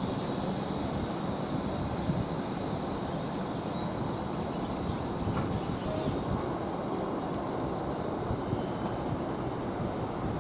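A train running past with a steady rumble and a faint high whine that fades out about halfway through.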